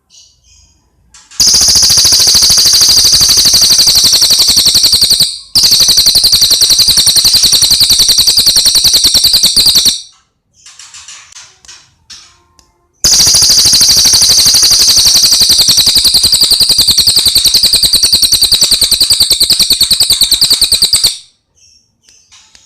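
Cililin song birds: three long, extremely rapid, loud high-pitched trills, the last about twice as long as the others. Shorter, softer chirping phrases fall between the trills.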